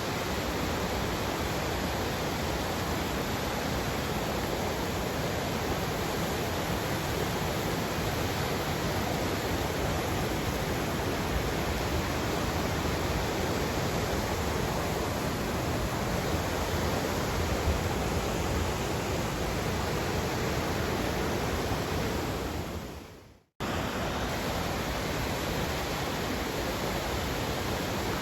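River water rushing steadily, an even wash of sound. About five seconds before the end it fades out to silence and snaps straight back in, like a loop or edit point.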